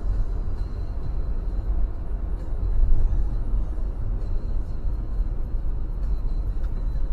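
Steady low rumble of a car driving, road and engine noise picked up by a dashcam's microphone.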